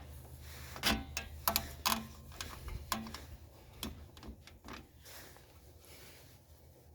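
Irregular light clicks and taps of metal tools and brake parts being handled, several close together in the first few seconds, then fewer and fainter.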